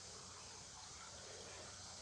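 Near silence: room tone with a faint steady hiss and a low hum.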